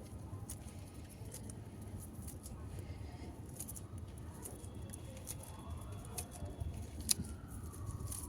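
Scattered sharp little clicks at irregular times over a steady low rumble, with a faint siren wailing up and down near the end.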